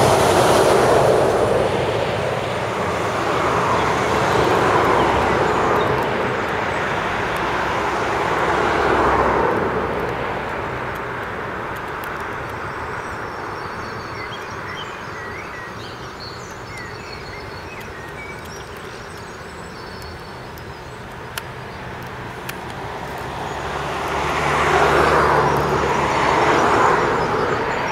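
Network Rail Windhoff electrification train approaching on the line, its diesel engine humming low beneath a rushing noise that swells and fades several times, loudest at the start and again near the end. Birds chirp faintly in the quieter middle stretch.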